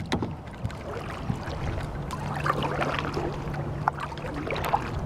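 Water splashing and lapping around a kayak as it is paddled, with small drips and paddle splashes. A faint low hum comes in for a couple of seconds midway.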